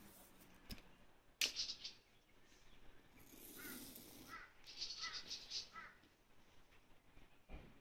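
Faint rustling of packaging and a sharp click as a motorcycle helmet and its bag are handled, with short bird calls repeating several times in the background.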